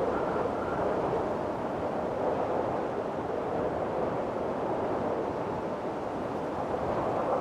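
Windstorm wind blowing in a steady, even rush, with a faint whistle in the first second.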